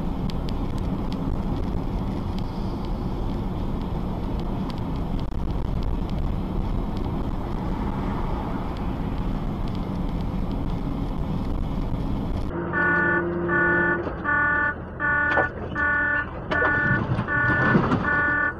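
Steady vehicle driving noise, engine hum and road rumble, for about twelve seconds. After an abrupt change, an electronic alarm-like tone pulses evenly about twice a second over traffic noise.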